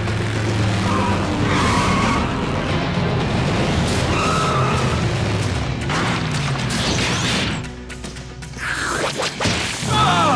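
Action-cartoon soundtrack: a background music score with crashing impacts and whooshes. The sound drops away briefly about eight seconds in.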